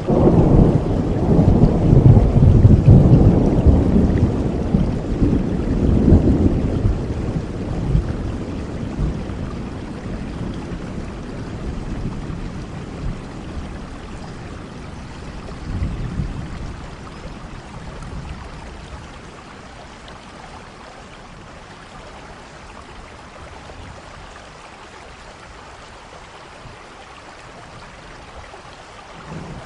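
Thunderstorm: a long, deep roll of thunder, loudest in the first seven seconds, then fading, with a smaller rumble about sixteen seconds in, over steady rain hiss.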